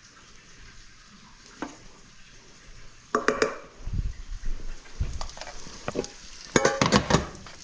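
A serving spoon scraping and clinking against a cooking pot and a plate while rice pilaf is scooped and dished out, with a couple of dull knocks and a quick run of clinks near the end.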